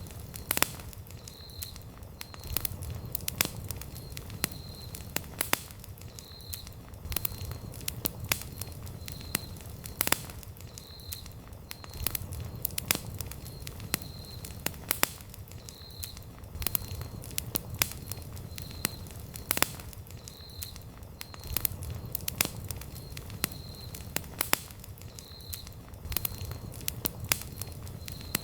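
Wood campfire crackling: irregular sharp pops and snaps over a low, steady rumble of burning wood.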